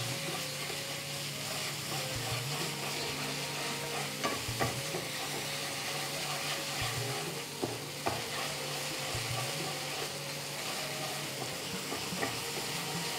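Ginger and green chilli paste sizzling in oil in a frying pan as it is fried down to cook off its raw smell. It is stirred with a wooden spatula that scrapes and knocks against the pan now and then.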